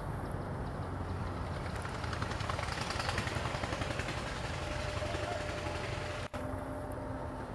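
Passenger train coaches rolling away along the track with a steady low rumble of wheels on the rails. The sound cuts out for an instant about six seconds in.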